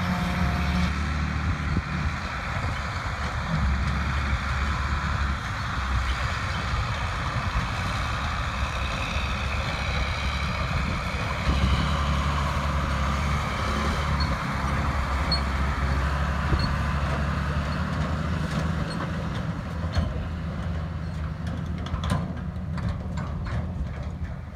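Heavy diesel farm machinery of a grass silage harvest running, a deep engine drone that swells and eases, with a broad rushing noise above it. A few sharp clicks near the end.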